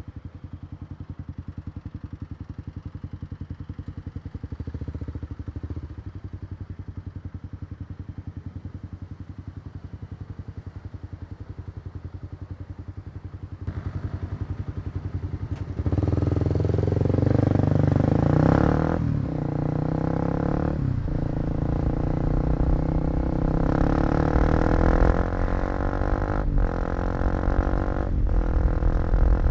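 Kawasaki KLX250's single-cylinder four-stroke engine running slowly at first, then pulling away about halfway through, revving up with brief drops in pitch as it shifts up through the gears several times.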